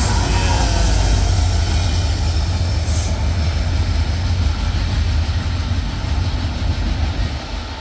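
Mixed freight train rolling past slowly, a steady rumble of wheels and cars that eases slightly near the end.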